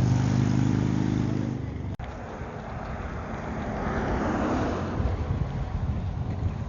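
Car engine running with a steady low hum, cut off abruptly about two seconds in; after it a rushing rumble swells and fades.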